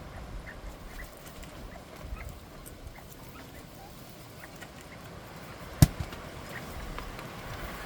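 Bobwhite quail giving scattered soft chirps and clucks, with wind buffeting the microphone in a low rumble. A single sharp knock comes about six seconds in.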